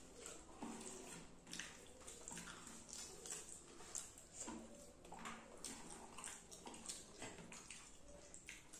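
Faint, wet eating sounds: chewing and lip smacks with irregular soft clicks as rice and fish curry are eaten.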